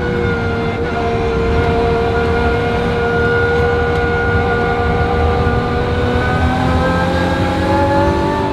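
Lotus Emira GT4 race car's 3.5-litre supercharged V6 running at steady revs, its pitch holding level for several seconds, then climbing as the revs rise near the end.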